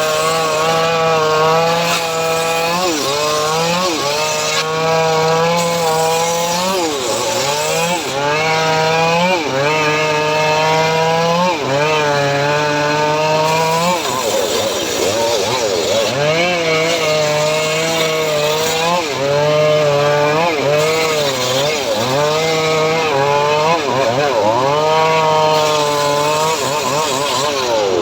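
Home-built engine-driven sawmill (gergaji srekel) running loudly while sawing teak. Its steady running note sags and recovers every two seconds or so as the blade takes the load, with a longer drop about halfway through.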